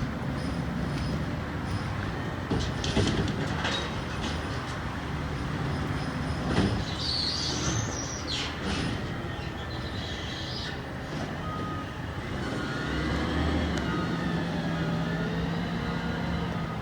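McNeilus ZR rear-loading garbage truck at work: its diesel engine running steadily with sharp metal clanks and a brief high squeal about seven seconds in. In the last few seconds the engine note strengthens and wavering whines rise and fall over it.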